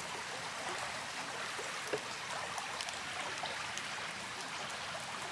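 Steady rushing of a flowing river, with a few faint ticks over it and a small click about two seconds in.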